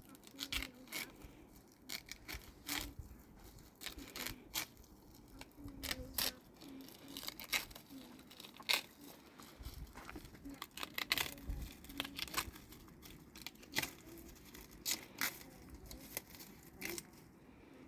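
Irregular sharp clicks and taps, about one or two a second, with some rustling between them: small objects being handled.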